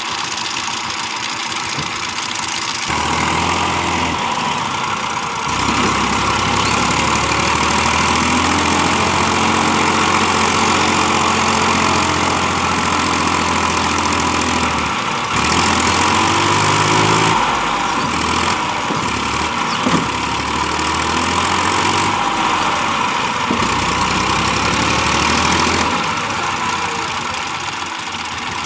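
TAFE tractor's diesel engine running, louder from about three seconds in, its speed shifting up and down now and then.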